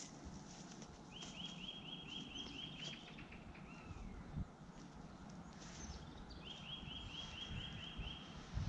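A small songbird singing two quick trills of about nine rising notes each, the second starting about six seconds in, with other faint bird chirps between them.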